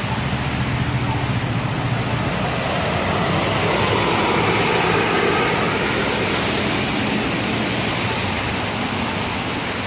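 Transport truck passing on the highway, no horn: a low engine drone with tyre and wind rush that swells to a peak about halfway and then eases off.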